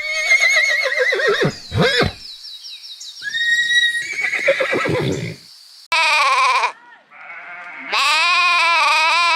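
Farm animals calling one after another: several separate pitched calls, the last a long quavering bleat of well over a second near the end.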